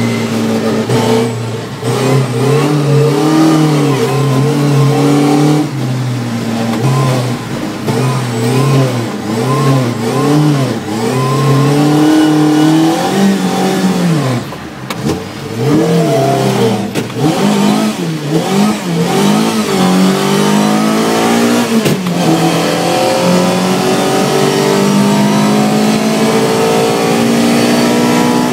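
Volvo 242's engine heard from inside the cabin, revving up and down over and over as the throttle is worked. The pitch dips low about halfway through, then holds higher and steadier near the end.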